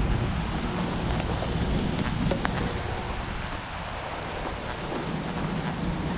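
Heavy rain falling steadily, with scattered drops ticking close to the microphone.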